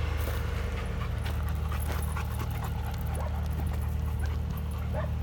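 A dog panting and whimpering faintly, with a few short yips, over a steady low rumble.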